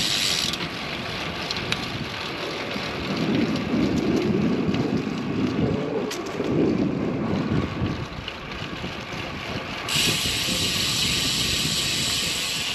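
Wind buffeting the microphone on a moving road bicycle, with tyre and road noise underneath. A steady high hiss comes in about ten seconds in.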